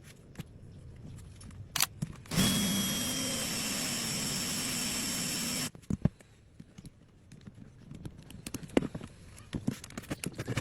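Electric drill running steadily for about three seconds, then stopping suddenly, used to loosen a rusty screw by friction and heat. Scattered handling clicks and knocks come before and after it.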